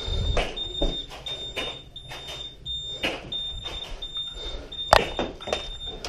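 Scattered sharp clacks and knocks of Nerf Rival play: blasters firing and foam balls striking hard surfaces, the loudest about five seconds in. A thin high beep cuts in and out underneath.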